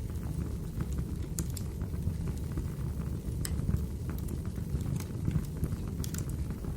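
Wood fire crackling: scattered sharp pops and snaps from the burning logs, a few louder ones among many small ones, over a steady low rumble.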